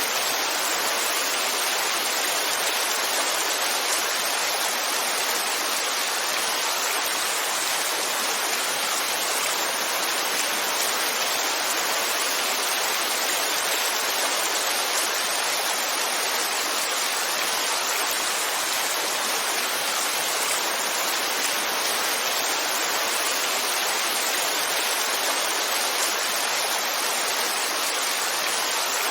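Heavy rain falling as a steady, even hiss, with no single drops standing out.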